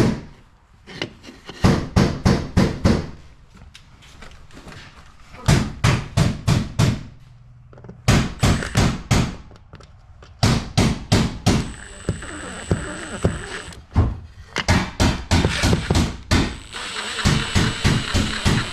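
Repeated runs of sharp knocks, four to six quick strikes in each, from hand-tool work during an opener installation. A faint steady high whine sounds under some of the later runs.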